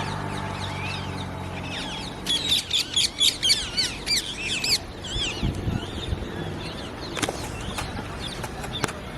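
Parrots calling: short, high, arched squawks throughout, with a rapid, loud run of them, about four or five a second, from about two seconds in until nearly five seconds in.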